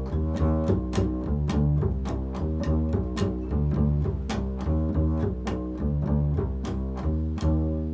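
Improvised music on a low plucked string instrument: a steady run of low, ringing plucked notes at about three a second.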